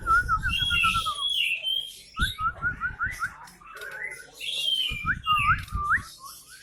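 Caged songbirds singing: quick runs of repeated whistled notes and trills in several phrases, with bursts of low rumbling noise three times.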